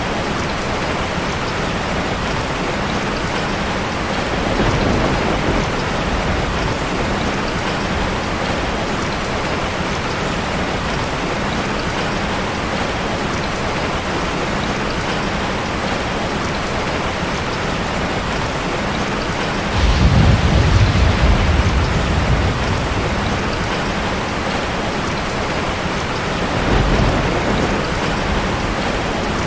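Heavy rain falling steadily, with rolling rumbles of thunder. The loudest rumble sets in suddenly about two-thirds of the way through and lasts a few seconds; weaker rumbles come earlier and near the end.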